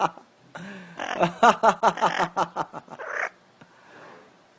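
Pet parrot giving a rapid run of short, laugh-like calls, about eight a second, lasting nearly three seconds and ending in a brief rasp.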